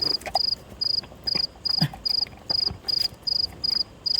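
Insect chirping in a steady, even rhythm: high-pitched chirps about two and a half a second, with a few faint clicks and knocks underneath.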